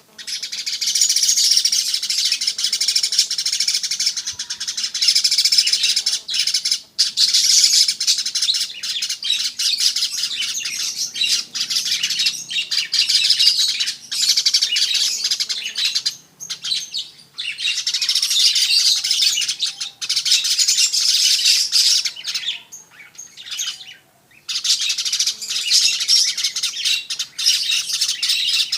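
Manyar weaver bird singing a fast, dense, high chattering song almost without a break, with a couple of short pauses past the middle.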